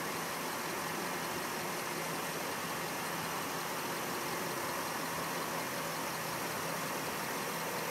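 Car engine idling steadily, a constant hum under an even hiss.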